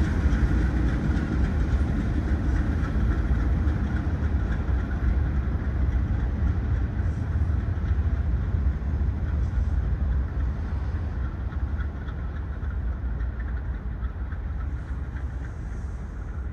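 Low rumble of a long freight train moving away, slowly fading.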